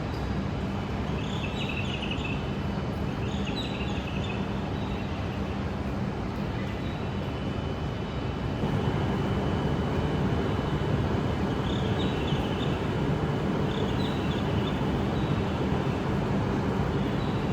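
Steady low rumble of a vehicle in motion, a train by its sound, growing a little louder about halfway through. Short clusters of high chirps come twice, near the start and again later.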